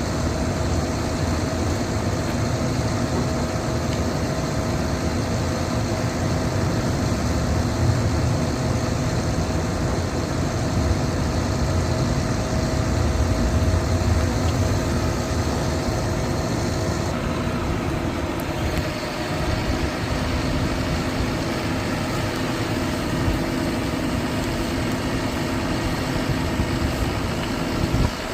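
Diesel engine of a Hyundai concrete pump truck running steadily, with a constant low rumble and a steady hum over it.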